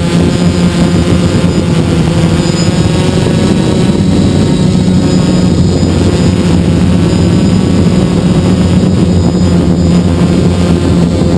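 Hexacopter's six electric motors and propellers running steadily in flight, heard close up, a constant hum with a faint high whine above it.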